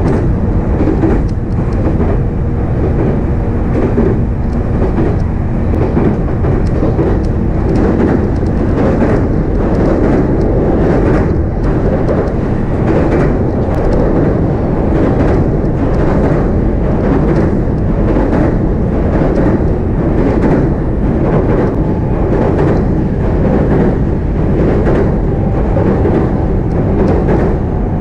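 JR East E531-series electric train running along the track, heard from inside a motor car: a steady rumble of wheels on rail with many small clicks through it.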